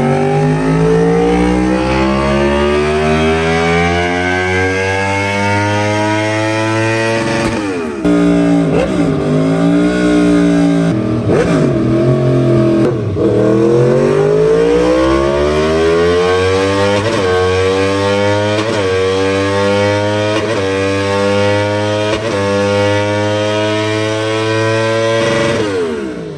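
Sportbike engine revving hard under load on a dyno run. Its pitch climbs in one long pull for about seven seconds, drops sharply, then rises again in a series of shorter climbs, each broken by a brief dip, before falling away near the end.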